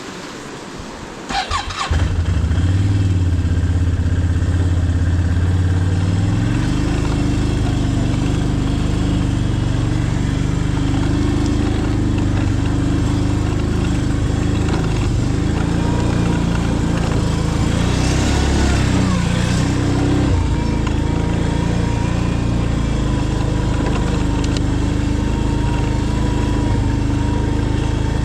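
A small vehicle engine starts about two seconds in and keeps running steadily, its note shifting a little around six seconds in.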